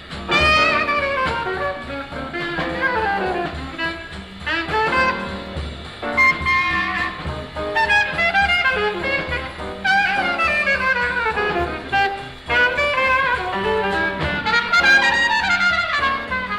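Live bebop jazz from an old concert recording: a horn solos in fast up-and-down runs of notes over bass and drums.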